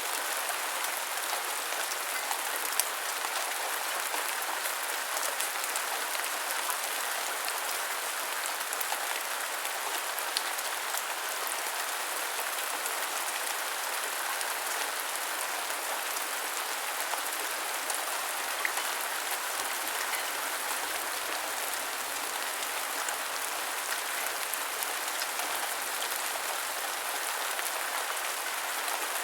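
Steady heavy rain: a continuous even hiss of falling rain with scattered sharper drop ticks.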